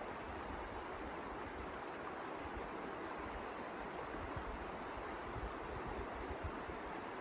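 Storm wind rushing steadily, with low irregular buffeting of the wind on the microphone.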